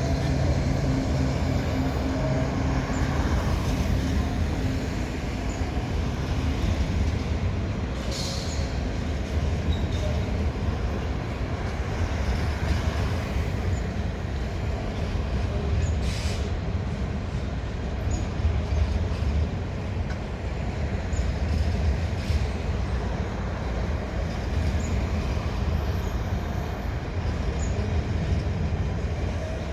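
Coal train rumbling steadily across a rail bridge as its wagons roll past, with a couple of sharp clicks from the wheels.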